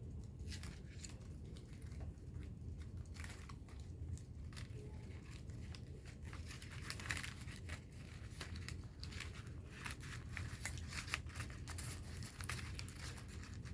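Paper being handled, crinkling and rustling in many short, irregular crackles, over a low steady hum.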